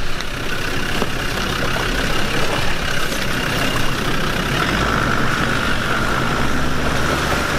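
Four-wheel-drive off-road vehicle's engine running steadily, a low rumble with a constant high whine above it.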